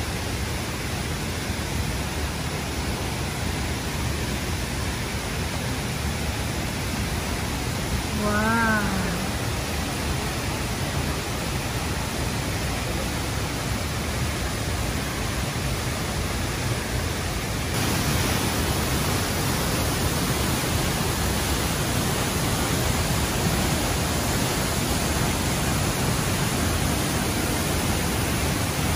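Steady rush of falling and flowing river water at a waterfall, getting a little louder and brighter about eighteen seconds in. A brief voice sounds once, about eight seconds in.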